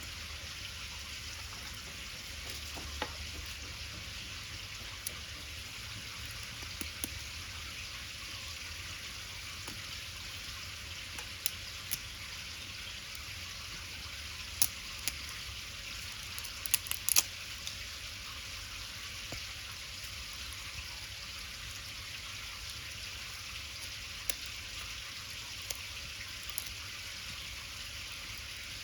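Cooking over a wood fire: a steady sizzling hiss with scattered sharp crackles and pops, including a quick cluster of pops a little past halfway.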